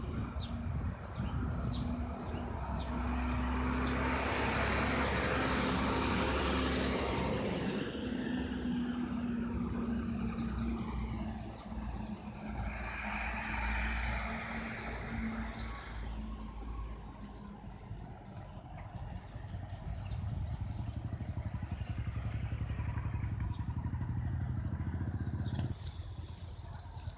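Motor vehicle engines passing on a street, one close by early on and another later that cuts off near the end, with birds chirping.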